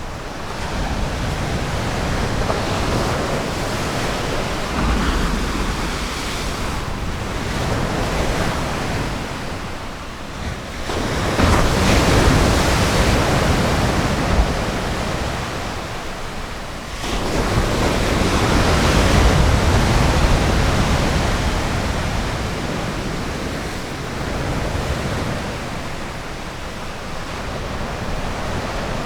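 Ocean surf washing onto a beach, a continuous rush of breaking waves that swells louder as waves break about eleven seconds in and again a little after seventeen seconds, then eases off.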